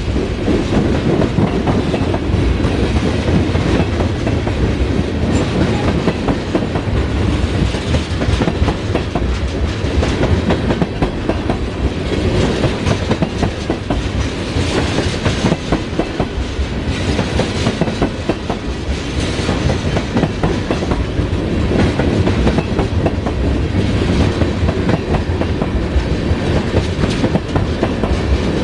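Oil train's tank cars rolling past at steady speed: a continuous loud rumble of steel wheels on rail with rapid, unbroken clickety-clack from the wheels crossing rail joints.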